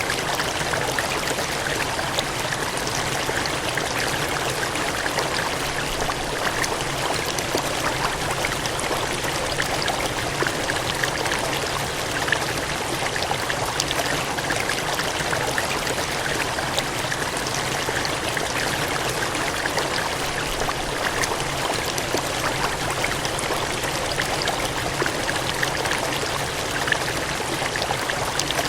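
Steady gushing water, a stream or cascade running without a break, with fine splashing and bubbling detail over an even rushing hiss.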